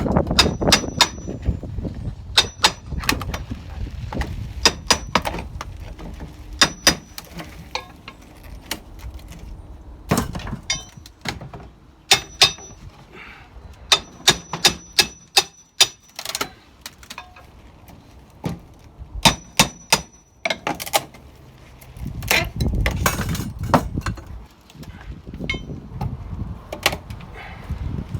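Hammer striking a steel pry bar in short runs of two to four sharp taps, several with a brief metallic ring, as window trim is pried loose. About three-quarters through there is a denser stretch of knocking and scraping.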